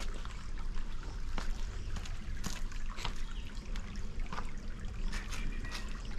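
Water trickling and dribbling over rocks in a stream, with scattered irregular clicks and a low rumble underneath.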